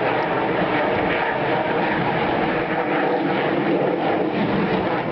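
Aircraft engine noise, steady and loud, with no clear rise or fall in pitch.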